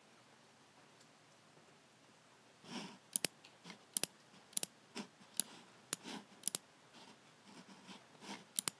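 Logicool G7 computer mouse buttons clicking, starting about three seconds in: sharp clicks, several of them in quick pairs, with softer low knocks of the mouse being handled in between.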